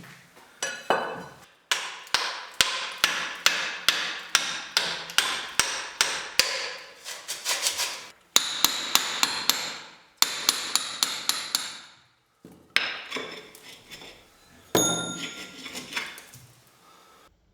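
Repeated hammer blows, a steady run of about two strikes a second, then a few slower, spaced strikes with a ringing tail.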